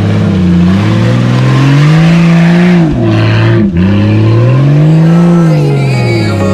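Off-road 4x4's engine revving loudly and repeatedly, its pitch climbing and falling in long swells, with a sudden brief dip a little past halfway.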